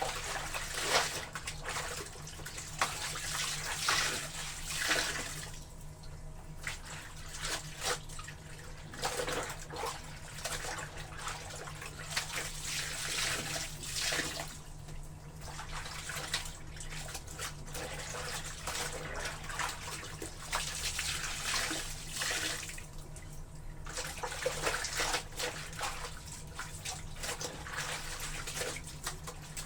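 Water sloshing and splashing as wet laundry is worked in a tub of soapy or rinse water, coming in surges every few seconds.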